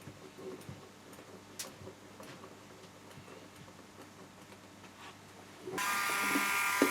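Light scattered clicks and taps of parts being handled, then about six seconds in a small electric power tool's motor starts and runs steadily at a high, even pitch.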